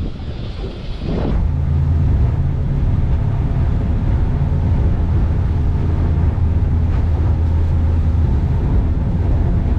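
Boat engine running at a steady pitch, a low drone with wind and water noise over it; about a second in, the wash noise drops back and the engine's steady drone takes over.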